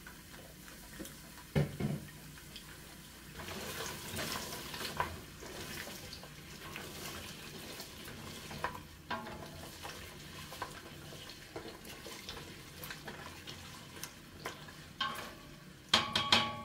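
Sliced carrots frying in oil in a stainless steel pot, a steady faint sizzle, as a wooden spoon stirs them with scattered knocks against the pot. A louder burst of knocks and clatter comes near the end.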